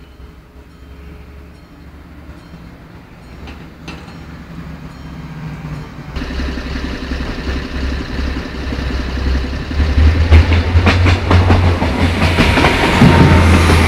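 A train approaching and growing steadily louder, with a low drone and wheel clatter over the rails that gets dense in the last few seconds.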